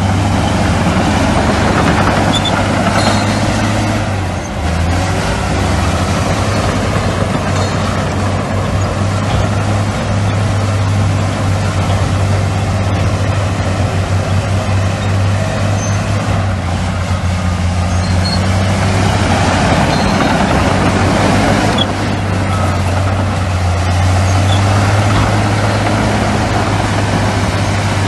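Heavy diesel engine of earthmoving machinery running steadily at a deep hum, with a brief dip about four seconds in.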